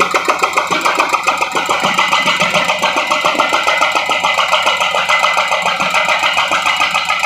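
Heavy road-demolition machinery at work: an engine running under load with a rapid, even pulsing.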